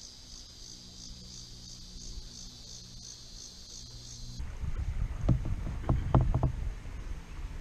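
A high, steady pulsing buzz for about the first half. It cuts off abruptly and gives way to kayak paddle strokes dipping and splashing in river water, with wind rumbling on the microphone.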